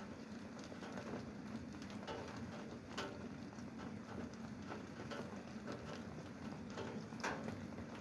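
Rain falling, with irregular drops pattering and ticking on a hard surface; two drops land louder, about three seconds in and again near the end.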